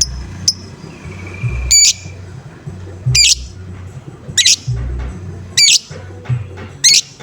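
Lovebird giving loud, harsh squawking calls, five of them about a second and a quarter apart, over a low pulsing beat.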